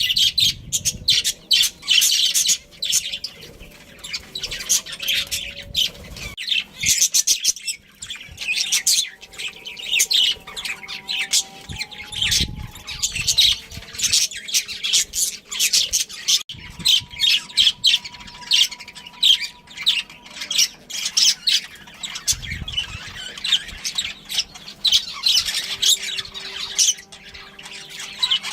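Budgerigars chattering: a rapid, unbroken stream of short, high chirps and squawks.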